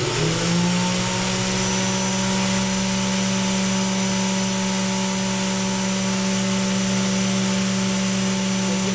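Cheap no-name angle grinder, clamped in a vice and fitted with a wire wheel, spinning up within the first second and then running at a steady high whine while it brushes rust off steel.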